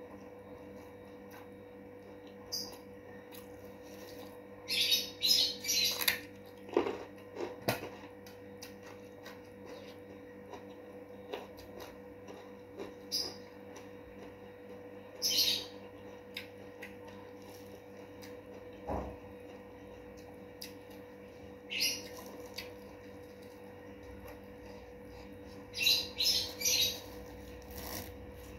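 Close-up chewing of crispy fried food, crunching in short crackly clusters several times, loudest about 5 to 7 seconds in and near the end, over a faint steady hum.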